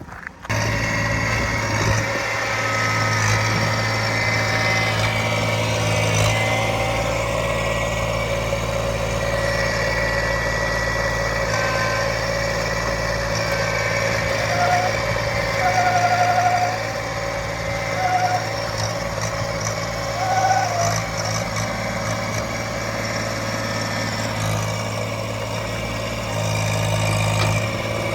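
Small tractor's engine running steadily while it digs, with a few short high squeaks about halfway through.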